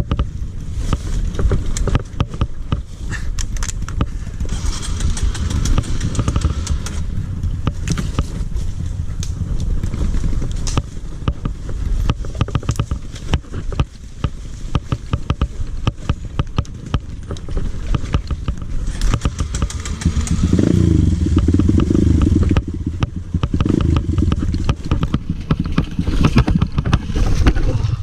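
Dirt bike engine running during a ride, with many knocks and rattles throughout. The revs rise and fall about twenty seconds in.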